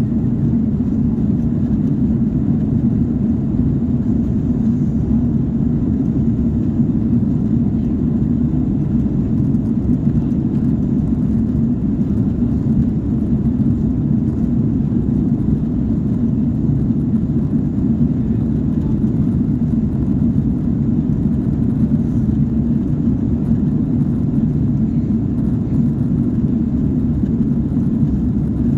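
Airliner's jet engines and rushing air making a steady low drone, with no rise or fall in pitch.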